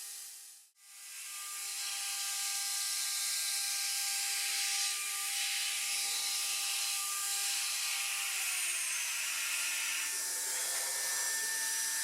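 CNC router spindle running with a 6 mm flat end mill roughing aluminium on a 3D adaptive toolpath: a steady whine of several tones over a hiss. The sound drops out briefly under a second in, and the tones step down in pitch about eight seconds in as the cut changes.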